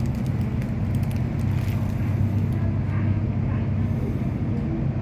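Electric suburban train heard from inside the carriage: a steady low hum as it moves slowly along the platform.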